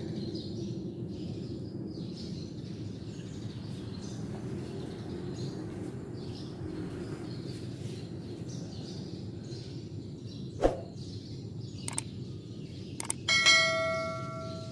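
Steady outdoor background noise with faint bird chirps. Near the end come a few sharp knocks and then a loud metallic ring that fades over about a second.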